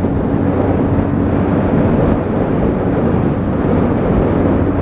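Motorcycle riding at a steady cruising speed: engine hum under a loud, even rush of wind and road noise.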